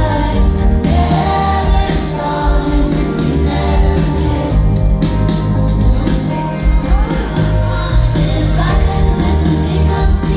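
A live pop song in a concert hall: a female lead voice singing over a full band with heavy bass and drums.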